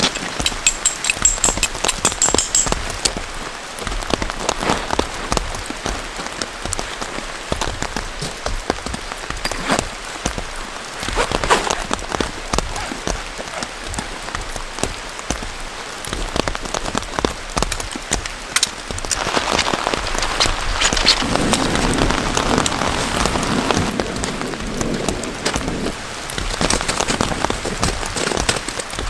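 Heavy rain falling, with a dense patter of drops striking a surface. About two-thirds of the way through, a louder, lower rushing noise rises for several seconds, then eases back.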